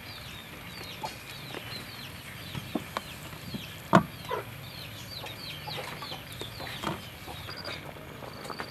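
Birds chirping, with many short high notes that fall in pitch, repeated throughout. Occasional knocks of handling come through, the loudest a sharp one about four seconds in.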